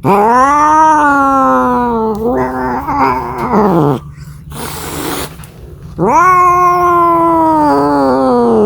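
Domestic cat caterwauling in two long, drawn-out yowls, each rising quickly in pitch and then sliding slowly down, with a short noisy burst between them and the second yowl beginning about six seconds in. This is the yowling of a cat calling for a mate.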